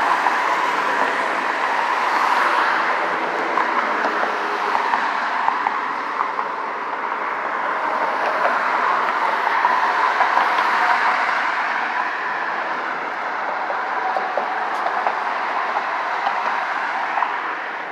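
Steady road traffic noise with no clear break, swelling gently now and then as vehicles pass.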